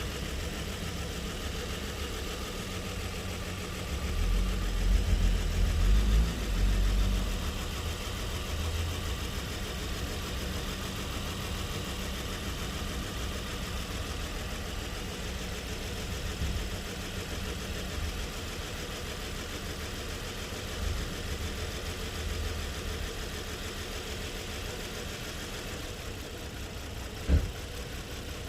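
Nissan car engine idling steadily. A stronger low rumble swells for a few seconds about four seconds in, and there is a single sharp click near the end.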